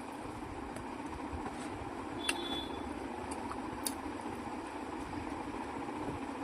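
Steady background hum with two short sharp clicks about a second and a half apart, the first with a brief ring.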